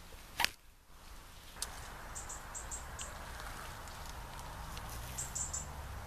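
A small bird giving short, very high, thin chirps in two brief runs, a few seconds apart, over quiet woodland background. A single sharp click sounds about half a second in.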